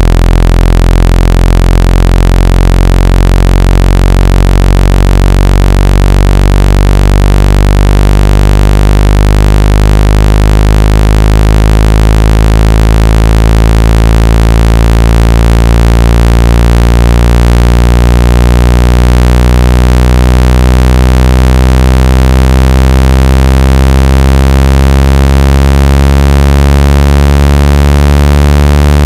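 Loud, steady, low-pitched synthetic buzzing tone with dense overtones, a speaker water-ejection tone played to vibrate water out of a phone or earphone speaker. Its pitch creeps slowly upward.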